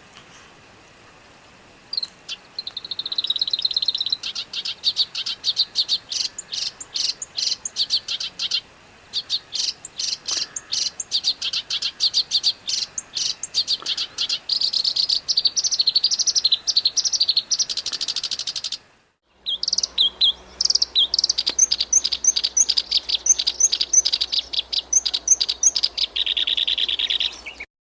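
Recorded songbird song built of rapid 'tembakan' trills: fast runs of sharp, high repeated notes. It breaks off for a moment about two-thirds of the way in, where another recording of the same kind of trilling starts over a faint low hum. It ends abruptly near the end.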